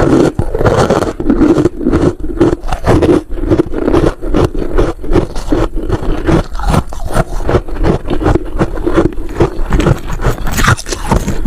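Freezer frost crunching close to the microphone: a dense, irregular run of crunches and scrapes, several a second.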